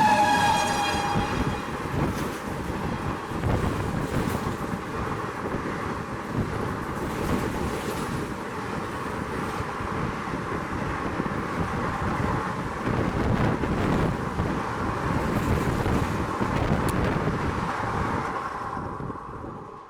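An express passenger train running through at high speed: the tail of its locomotive's horn drops in pitch in the first second as the engine passes, then the coaches rush and rumble by in a steady roar that fades away near the end.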